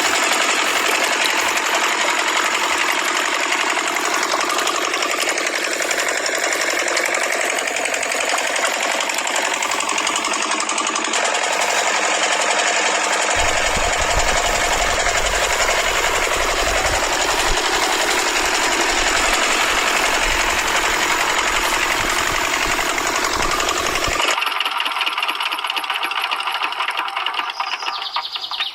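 Small motor running with a fast, rattling buzz, its sound changing abruptly a few times, with a low rumble joining in for a stretch in the middle.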